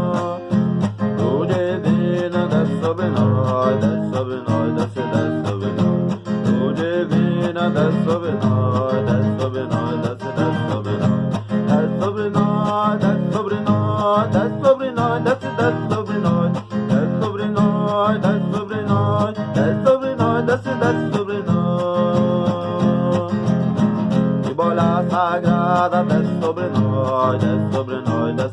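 A song with a strummed acoustic guitar keeping a steady rhythm and a voice singing over it.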